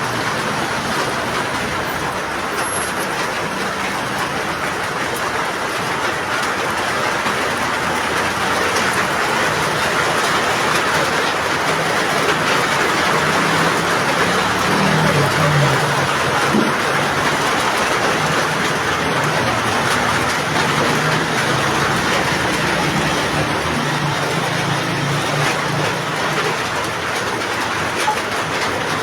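Heavy rain pouring down, a steady loud hiss with a low rumble underneath.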